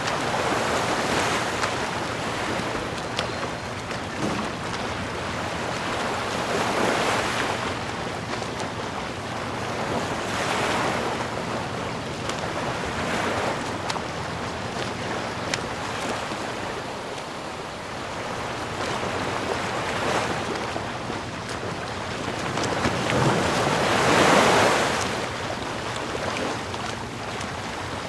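Sea waves washing in, each swell rising and falling away every few seconds, the biggest one near the end.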